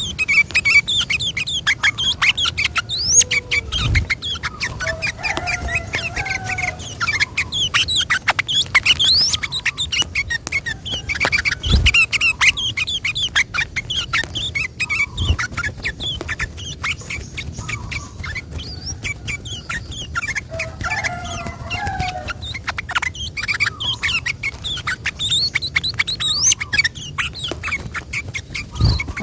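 Yellow-vented bulbul (trucukan) singing a long, rapid run of chattering, bubbly notes, used as a lure call to set other bulbuls singing. A few dull low thumps sound over it.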